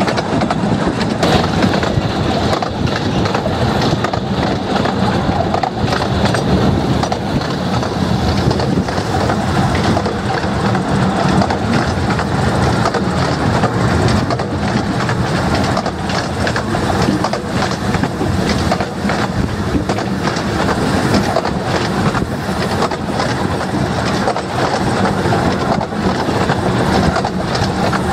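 15-inch gauge miniature train running along the line, heard from an open carriage: a steady rattle of wheels on the rails and many small clicks and knocks from the track and carriages.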